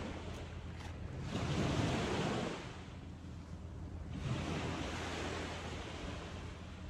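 Ocean waves washing on the shore, swelling about a second in and again around four seconds, with wind on the microphone.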